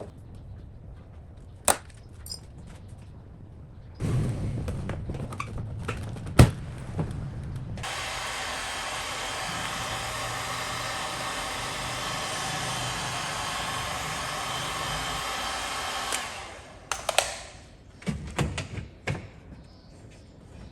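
An electric power tool's motor runs steadily for about eight seconds, starting and stopping abruptly. Single knocks and handling clatter come before and after it.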